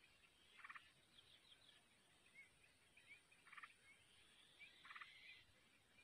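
Faint bird calls: three short rattling bursts with soft high chirps between them.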